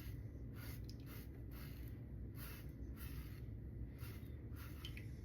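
Lambda Ares v2 safety razor with a Tatra blade scraping through lathered stubble. It makes short, rhythmic scratchy strokes at about two a second.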